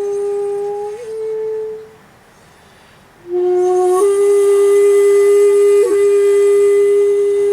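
Komuso-style shakuhachi playing slow, long held notes: one note ends about two seconds in, a short breath pause follows, then a new note starts low, steps up about four seconds in and is held steadily with audible breath noise in the tone.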